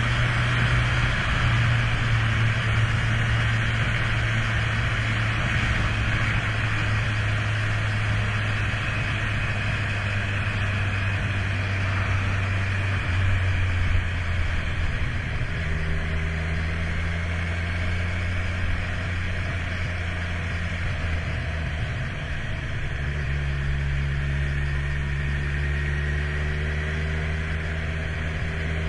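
Kawasaki Z1000 inline-four motorcycle engine idling steadily. Its note drops a little lower about halfway through and again later on.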